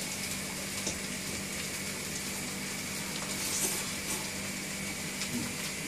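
Fried mee goreng noodles sizzling steadily in a wok over a gas burner, with a low steady hum underneath.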